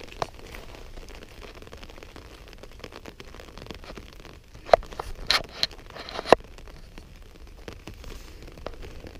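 Rain pattering on an umbrella canopy held overhead, a steady patter of small drop ticks, with a few louder sharp taps about halfway through.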